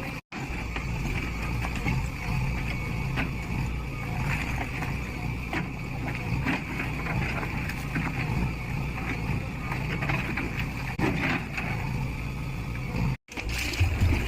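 A JCB 3DX backhoe loader's diesel engine runs steadily under working load while it demolishes a building, with scattered knocks from the work. The sound cuts out briefly just after the start and again near the end.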